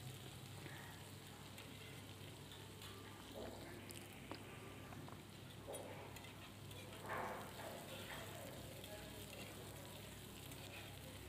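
Faint sizzling of sliced onions, ginger, garlic and whole green chillies frying in oil in a non-stick kadai. A wooden spatula stirs and scrapes through them, with a few soft swells of sound.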